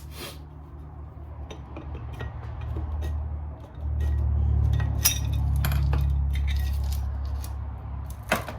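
Sharp metallic clinks and clicks of tools and engine parts being handled while the top end of a Suzuki LTR 450 engine is taken apart. Under them is a low rumble that swells about four seconds in.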